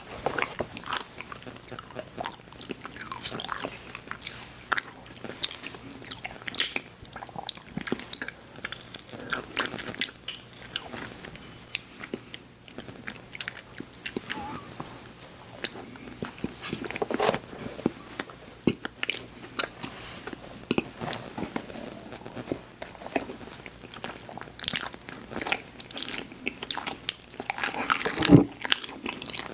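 Close-miked mouth sounds of someone biting and chewing crunchy cookies: irregular crackly crunches throughout, with a louder bite near the end.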